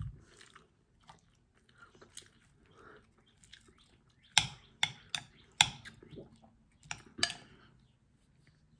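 Close-up chewing of milkfish and rice, with about six sharp clicks in the middle as a metal spoon knocks against a ceramic bowl.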